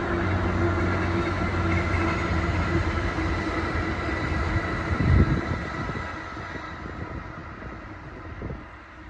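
1994 Honda Acty kei truck's small three-cylinder engine running steadily, fading away over the last few seconds. A dull thump sounds about five seconds in, and a smaller one near the end.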